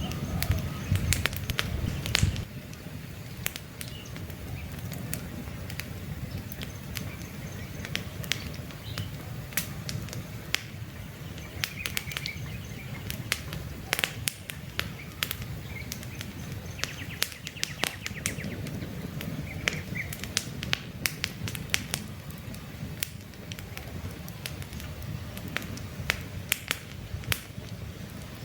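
Wood campfire crackling, with frequent sharp pops over a low rumble of flames that eases off about two seconds in. A few short bird chirps sound in the background.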